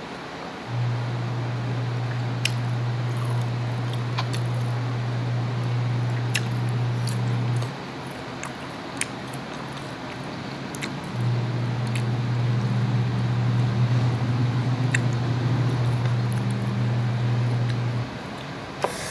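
Crunchy chewing of raw green mango, heard as scattered sharp clicks and smacks. Under it, a steady low hum runs for about seven seconds, stops for a few seconds, then returns for about seven more.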